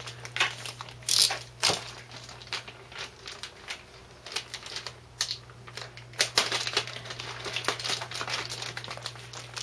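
Plastic bag being pulled open and handled, with irregular crinkling crackles, over a steady low hum.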